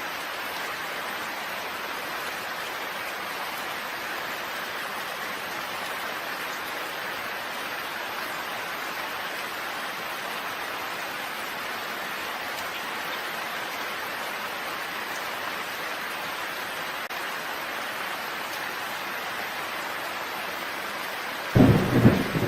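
Steady rain falling. About a second before the end, a loud, sudden clap of thunder breaks in and rumbles on.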